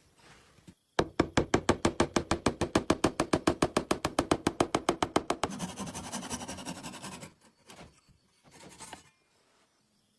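Old household sewing machine running, a rapid even clatter of about ten strokes a second that blends into a continuous whir and stops about seven seconds in. A couple of short, faint knocks follow.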